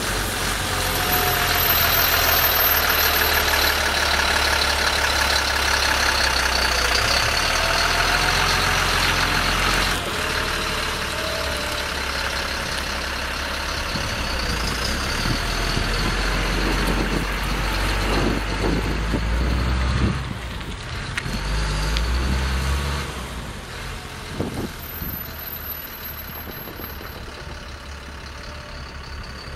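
Engine of a GMC C6500 water truck running steadily at idle, growing quieter after about twenty seconds.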